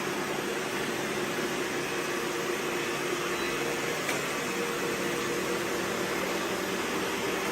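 Robot vacuums running together: a steady whir of motors and suction with a faint hum under it.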